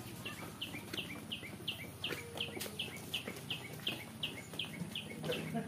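A bird calling the same short, high note over and over, about three times a second.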